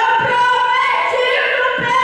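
Worship music with voices singing long held notes.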